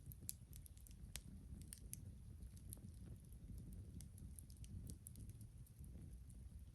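Wood campfire crackling: small, irregular sharp pops and ticks over a faint, steady low noise.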